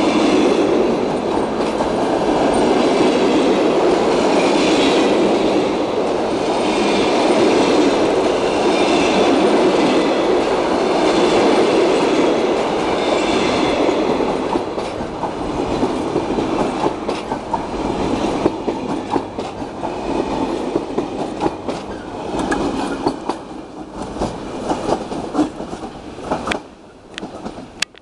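Russian Railways passenger coaches rolling past close by: a steady loud rumble of wheels on rail, which about halfway through turns into quicker, distinct clickety-clack of wheels over the rail joints as the last coaches pass and the sound falls away near the end.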